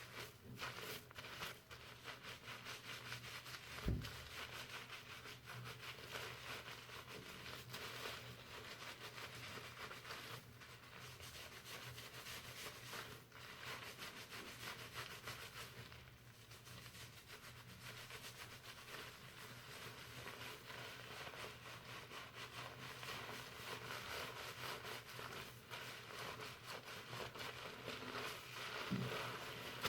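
Fingers slowly scrubbing shampoo lather through hair: a steady crackly rustle of foam and wet hair, with a soft low bump about four seconds in and another near the end.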